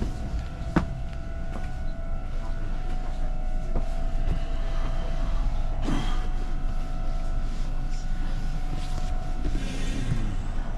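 Train running on its rails, heard from inside the car: a steady low rumble with two steady whining tones over it and a few sharp clanks.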